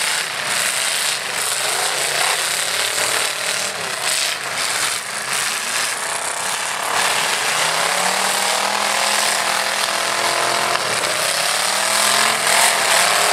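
Pickup truck engines revving hard in a demolition derby, their pitch climbing in several surges in the second half, over a steady metallic rattling clatter with scattered knocks.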